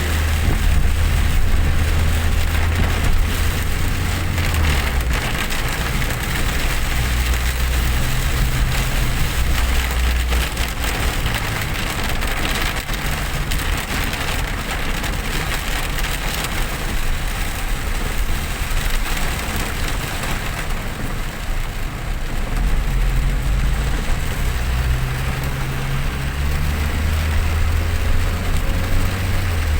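Heavy rain hissing on a moving vehicle, over a steady low rumble from its engine and tyres on the wet road.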